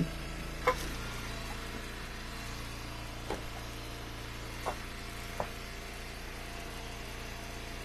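Engine of a firewood log splitter running steadily, with a few sharp knocks of wood, the loudest about a second in.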